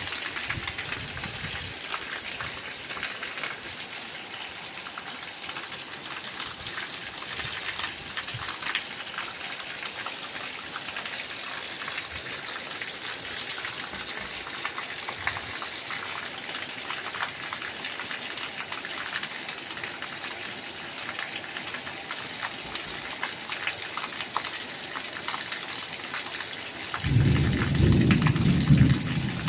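Steady rain falling, with many separate drops hitting. Near the end a louder, lower sound lasts about two seconds.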